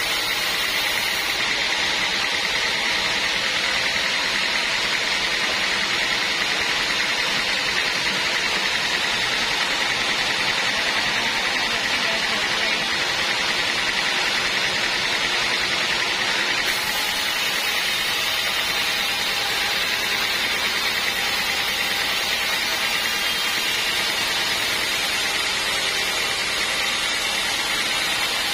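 Band sawmill running, a loud, steady, unbroken machine noise.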